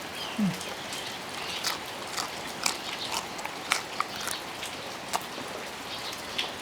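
Steady heavy rain falling, with scattered sharp drips and taps standing out over it.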